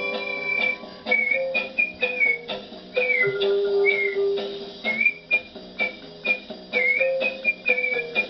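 Human whistling of a melody, in short notes with little slides and dips, over a plucked acoustic guitar backing track.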